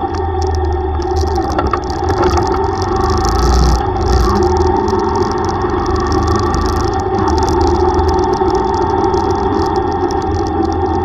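Yamaha YTX125's single-cylinder four-stroke engine running steadily under way, with road and wind noise.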